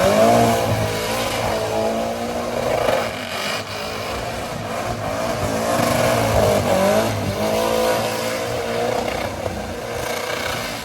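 Diesel pickup truck engine held at high revs during a burnout, its pitch surging and dropping several times over the hiss of spinning tyres.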